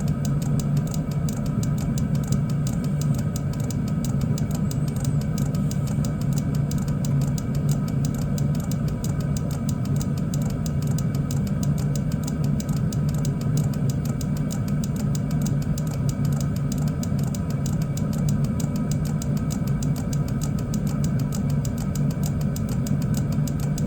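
Chinese diesel air heater running steadily: a constant hum from its fans with several faint steady whine tones above it, the burner settled close to stable combustion.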